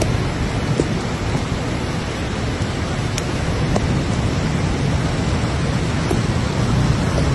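Rain-fed waterfall pouring: a steady, loud rush of falling water, deepest in the low end, with a few faint sharp ticks through it.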